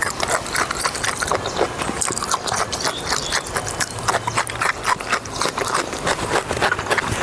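Close-miked mukbang eating, most likely pork intestine and seafood being chewed: a rapid, irregular run of wet smacking and crunching clicks.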